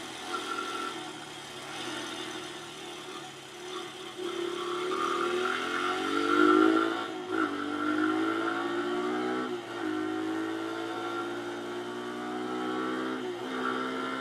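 Pit bike's small single-cylinder four-stroke engine under way. It accelerates, its pitch climbing and then dropping back three times as the rider shifts up through the gears.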